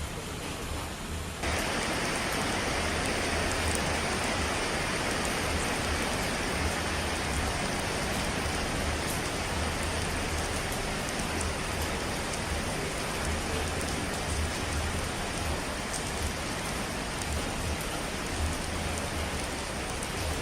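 Steady hiss of falling water, stepping up louder and brighter about a second and a half in, then holding even with faint scattered drop ticks.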